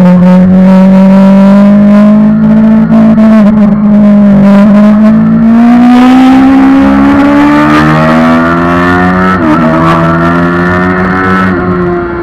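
Suzuki GSX-R 750 inline-four engine running loud at high revs on track, heard from the rider's seat. The revs climb steadily, break briefly about nine seconds in, then pull on again.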